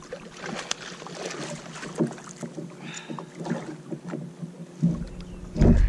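Scattered small knocks and clicks of gear being handled on a plastic fishing kayak while a fish is played. Near the end, wind buffets the microphone with a loud low rumble.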